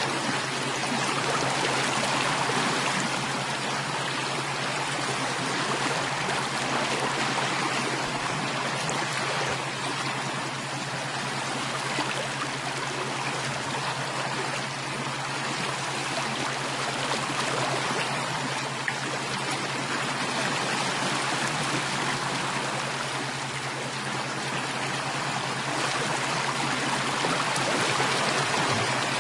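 Flowing stream water running steadily, with a steady low hum underneath.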